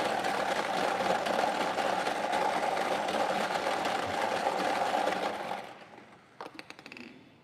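Numbered balls churning and rattling inside a lottery drawing machine for about six seconds, then stopping. A few separate clicks follow near the end as the drawn ball comes out.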